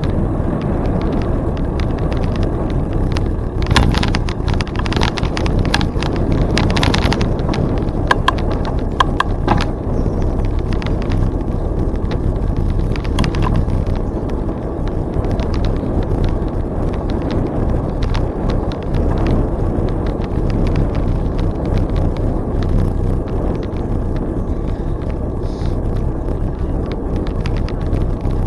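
Riding noise from a moving bicycle: a steady low rumble of wind on the microphone and tyres on the trail, with a run of sharp clicks and rattles about four to ten seconds in.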